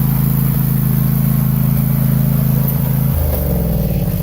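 Small lawn tractor engine running steadily at speed close by. About three seconds in, its pitch drops suddenly as it slows down.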